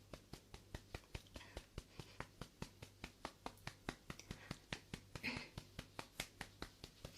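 Rapid light tapping on the microphone in a steady rhythm, about five taps a second, standing in for a back-pounding massage.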